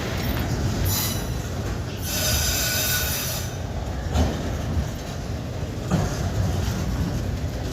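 Freight train of double-deck auto-rack cars rolling past, a steady low rumble of wheels on rail. A high wheel squeal with several tones sounds from about one to three and a half seconds in, and two sharp clacks come about four and six seconds in.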